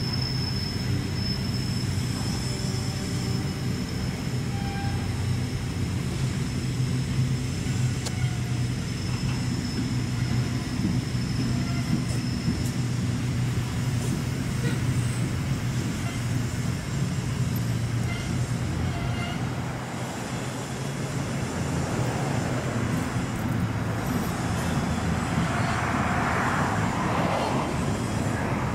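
Container freight train's wagons rolling past, a steady low rumble with a thin, high wheel squeal over roughly the first half. A rushing noise swells briefly near the end.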